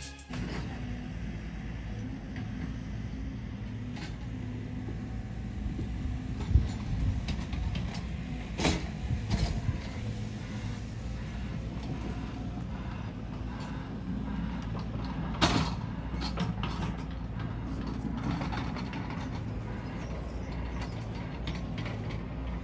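Passenger train running on the track: a steady low rumble with a few sharp clicks and some creaking from the wheels and rails.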